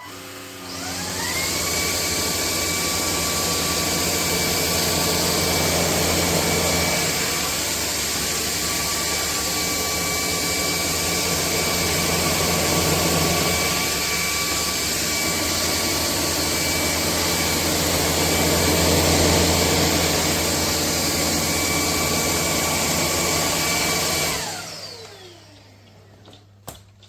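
Bulelink cordless stick vacuum cleaner's motor spinning up with a rising whine, running steadily, then winding down with a falling whine near the end. A few light clicks follow.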